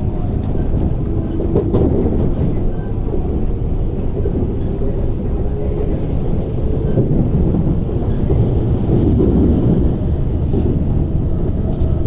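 Steady low rumble of an MTR East Rail Line SP1900 (IKK) electric train in motion, its wheels running on the rails, heard from inside the carriage.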